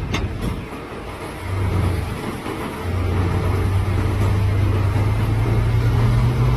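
Heavy diesel engine running with a deep steady drone that grows louder about a second and a half in and again at three seconds, then holds. A brief click sounds right at the start.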